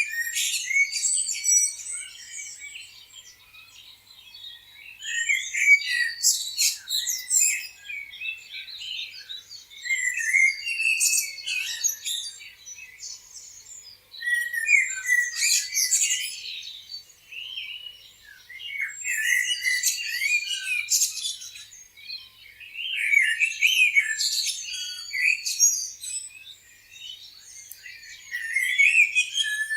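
Several small songbirds chirping and trilling over one another, in busy bursts that come every four or five seconds with quieter gaps between.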